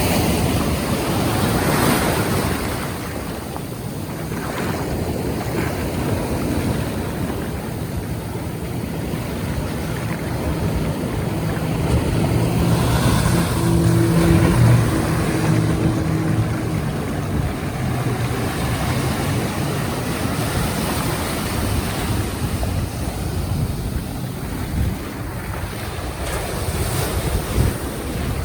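Surf washing and wind buffeting the microphone, with a boat's outboard motor running through the middle, loudest about fourteen seconds in and then fading.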